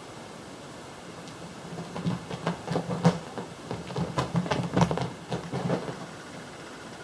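A cat's paws scrambling on a hard floor: a quick, irregular run of soft thumps and clicks lasting about four seconds, starting about two seconds in.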